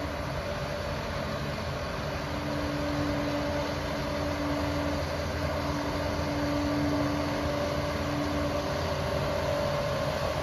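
Liebherr 746 bulldozer running steadily, its diesel engine noise joined about two seconds in by a steady whine.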